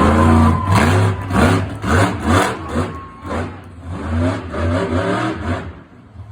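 Monster truck engine revving in quick repeated throttle blips, about two a second, fading near the end.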